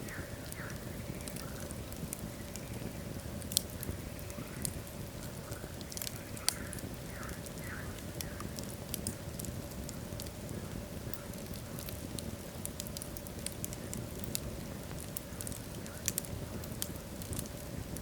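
Wood logs burning in a fireplace: a steady low rumble of flames with frequent sharp crackles and pops, the loudest pops about three and a half and six and a half seconds in.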